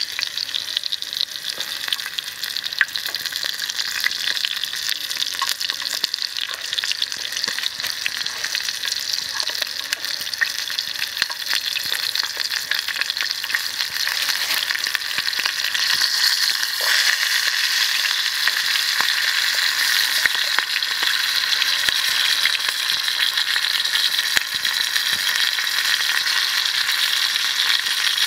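Chicken leg frying in hot oil in a shallow pan, with a steady sizzle and dense fine crackling that grows a little louder about halfway through.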